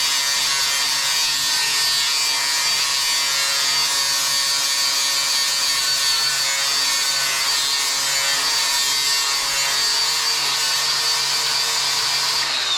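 Electric grinder running steadily under load with a constant high whine, grinding into steel to dig a hairline crack out of the plate before it is welded.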